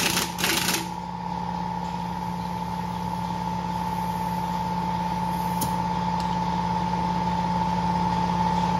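A steady machine hum at a constant pitch, with a few short bursts of metallic tool noise in the first second.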